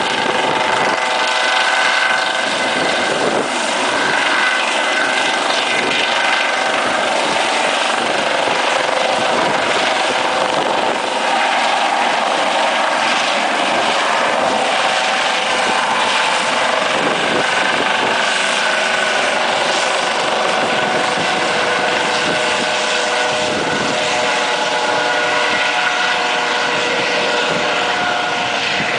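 Helicopter running close by, a loud steady mix of turbine whine and rotor noise with several wavering tones over it.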